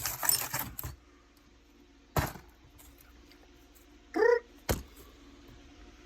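Broken figurine shards clinking and rattling for about a second, then quiet with two single sharp knocks a couple of seconds apart and a short hum of a man's voice between them.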